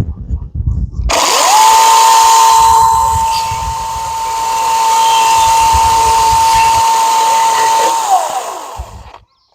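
Milwaukee Fuel top-handle battery chainsaw spinning up about a second in to a steady high whine, held while it cuts through an old wooden fence post, then winding down near the end. Low handling knocks come before it starts.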